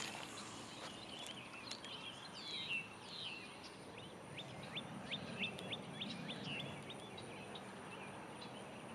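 Small birds calling: a few warbling chirps, then a run of short, quick down-slurred chirps several times a second, over a faint, steady outdoor hiss.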